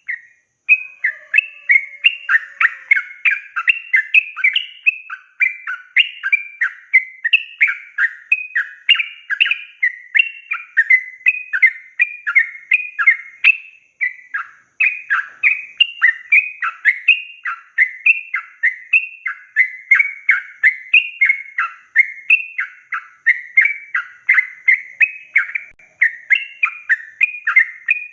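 Yellow-vented bulbul (trucukan) singing continuously in a long, rapid run of bubbly, chattering notes, about three phrases a second, with a brief break about halfway through.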